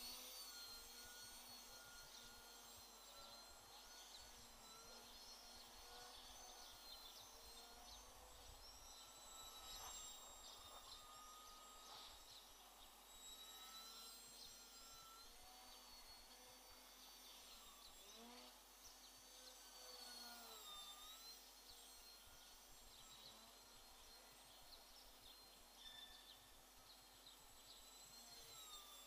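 Faint whine of an FPV quadcopter's electric motors, several pitches wavering up and down together as the throttle changes, over a steady hiss.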